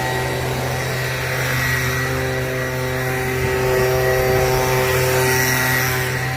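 Pressure washer running steadily: a constant motor hum with the hiss of the water spray.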